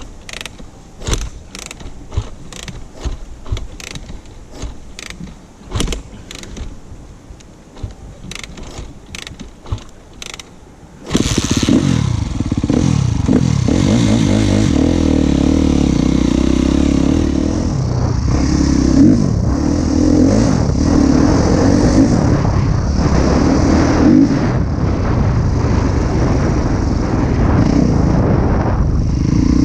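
Scattered clicks and knocks, then about eleven seconds in a Husqvarna TC 250 motocross bike's engine fires up suddenly and keeps running loud, its pitch rising and falling as it is revved.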